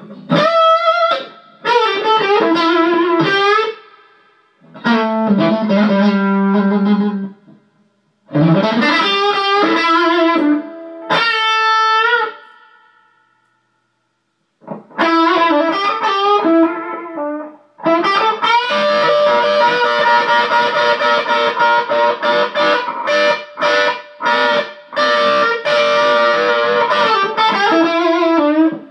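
Guitar playing blues phrases with short pauses between them, turning into a longer, denser run of notes over the second half.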